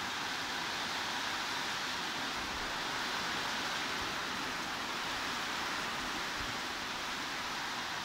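Steady, even hiss of heavy rain, with no separate drops or changes standing out.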